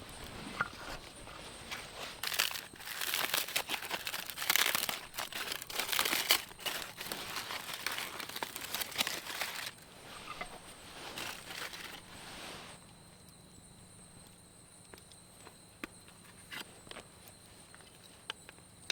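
Rustling and crinkling with many sharp clicks, louder through the first two-thirds and stopping about two-thirds in, leaving only a few scattered ticks.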